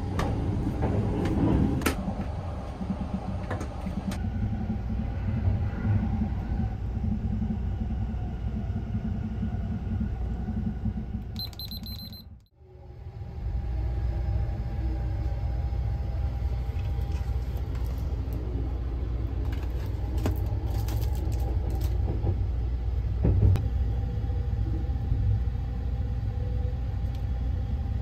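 285-series Sunrise Seto sleeper train running, heard from inside a compartment as a steady low rumble, with a few light clicks of handling. The sound drops out for a moment about halfway through, then the rumble returns.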